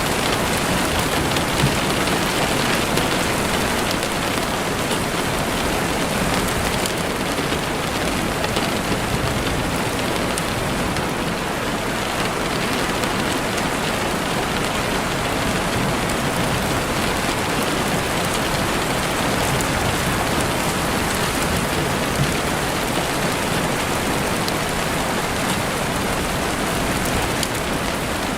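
Heavy rain falling steadily on a window, an even hiss of rain with faint scattered drop ticks.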